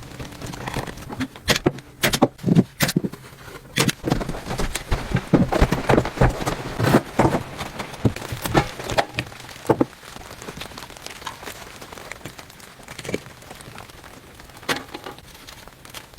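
Irregular sharp knocks and crackles over a steady hiss. They come thick for about the first ten seconds, then thin out to an occasional knock.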